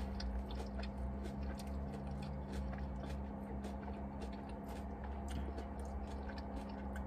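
A person chewing food, with many small wet mouth clicks, over a steady low hum.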